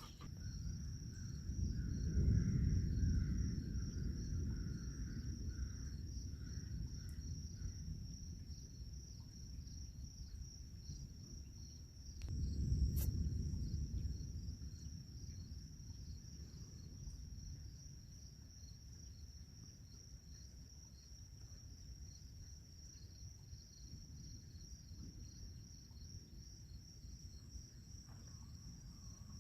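Steady chorus of insects, a high, finely pulsing trill that runs on evenly. Two low rumbles swell and fade underneath it, one about two seconds in and another near the middle.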